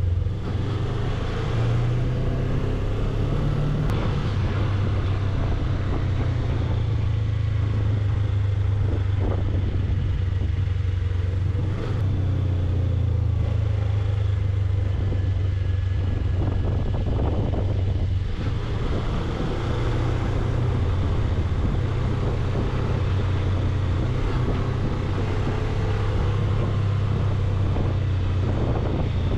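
Suzuki V-Strom 250 motorcycle engine running steadily while riding, its low note shifting a little now and then, with a steady rush of wind and road noise.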